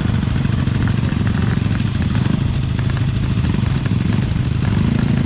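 An engine running steadily at a low, even pulse.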